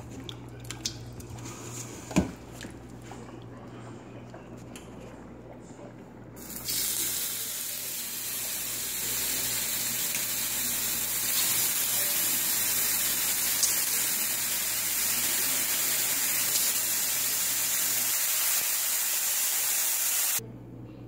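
Marinated chicken pieces sizzling on a smoking-hot ridged grill pan: a loud, steady sizzle that starts abruptly about six seconds in and cuts off near the end. Before it, faint squishing of chicken being worked through the marinade by a gloved hand, with one sharp click.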